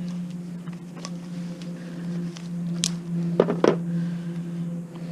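Sharp clicks and knocks of tools and metal scrap parts being handled, several scattered through, with two close together about three and a half seconds in, over a steady low hum.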